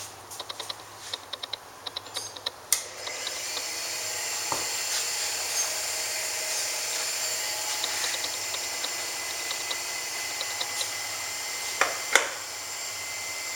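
Light clicks, then a sharp click about three seconds in as a Gromax GT35L tool and cutter grinder's motor is switched on. It then runs with a steady whirr and a faint whine, with a couple more clicks near the end.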